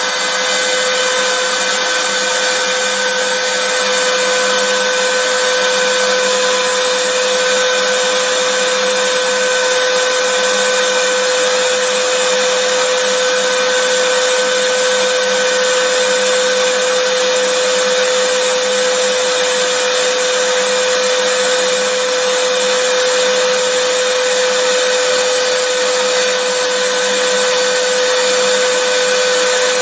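Vacuum cleaner running steadily and without change: an even rushing noise with a constant tone running through it.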